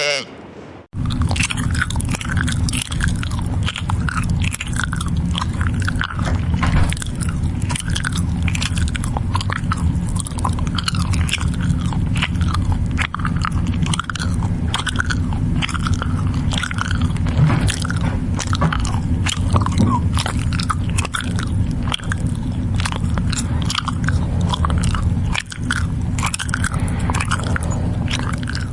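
Goat chewing and crunching its feed close up: a steady run of crisp bites and grinding over a low, steady rumble.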